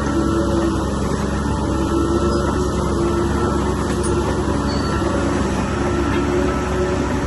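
Crawler bulldozer's diesel engine running steadily under load, with a wavering whine riding over the low engine note.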